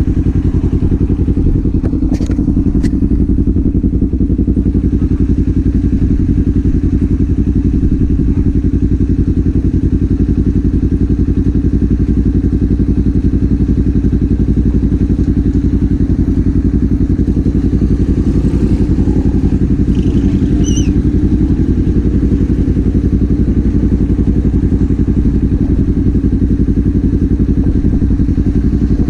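Kawasaki Z400 parallel-twin engine and exhaust running steadily while riding, heard from the rider's position, with no revving up or down.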